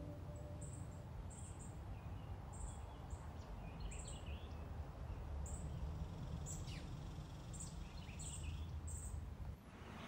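Birds calling: a short high chirp repeated roughly once a second, with a few lower warbled calls in between, over a low steady rumble.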